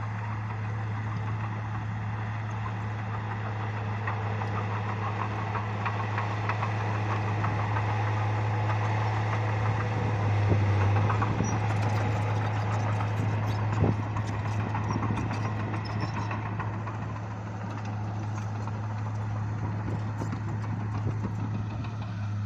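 Bulldozer's diesel engine running steadily, with clanking and rattling throughout, loudest about halfway through.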